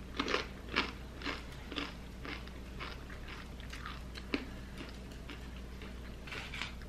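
Close-up chewing of a crisp tortilla chip: mouth-closed crunches about twice a second that fade over the first three seconds, then a single click and a short burst of crunching near the end.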